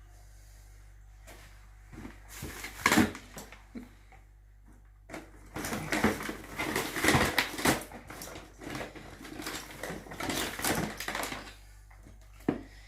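Irregular clicks, snips and rustling of electrical wires being cut and handled, starting about two seconds in and busiest in the second half.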